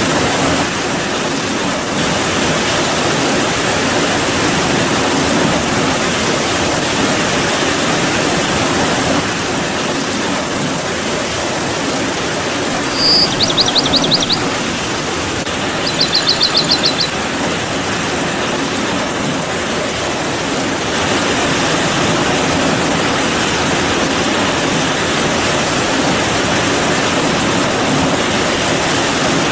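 Steady rainfall, an even hiss of falling water. Twice, about halfway through, a short, high, rapid trill stands out above the rain.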